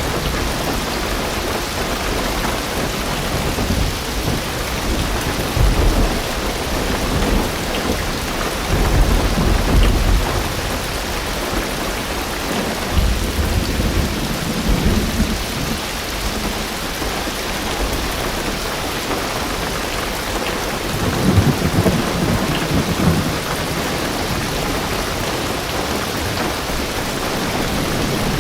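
Heavy rain drumming steadily on a car's roof and windows, heard from inside the car, with low rumbles of thunder swelling up several times.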